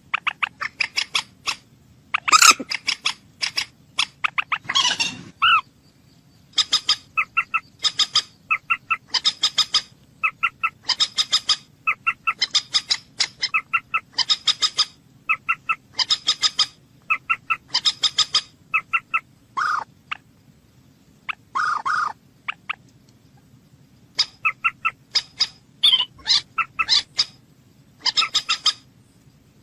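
A bird calling over and over in short bursts of rapid pulsed notes, a burst about every second, with a few longer, drawn-out notes in between.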